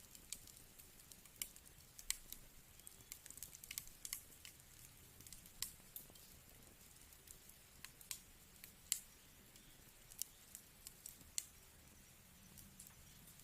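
Wood fire crackling in a fireplace: irregular sharp pops and snaps, several a second at times, over a faint low hiss.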